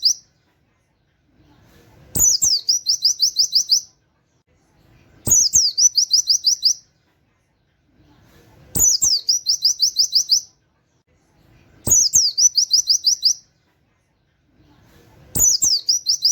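Pleci (white-eye) singing its rapid 'wit wit' canary-style phrase: a quick downward sweep followed by a fast string of about eight high chirps. The same phrase comes five times at even spacing, about every three seconds.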